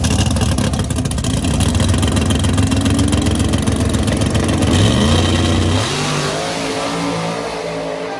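Drag car's engine running loud at the starting line, then rising sharply in pitch about five seconds in as it launches, and fading as it pulls away down the strip.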